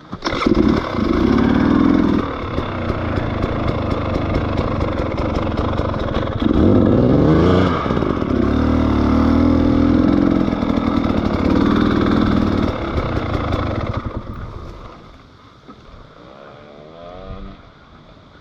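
Trail motorcycle engine running close by, revved up and back down about six to eight seconds in, then dropping away to a faint background about fourteen seconds in.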